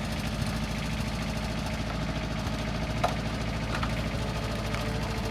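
An engine idling steadily, with a faint click about three seconds in.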